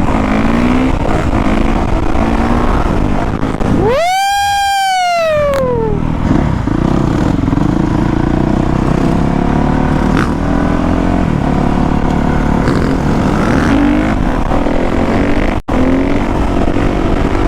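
Dirt bike engine running steadily throughout. About four seconds in, another dirt bike revs hard close by, its pitch climbing quickly and then falling away over about two seconds.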